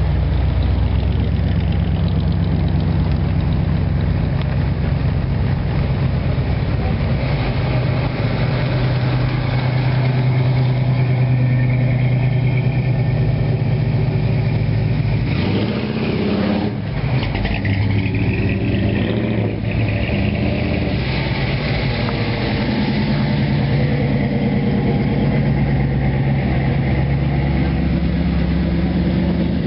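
Classic car and pickup engines running at low speed as the vehicles drive past one after another. One engine revs up briefly about halfway through.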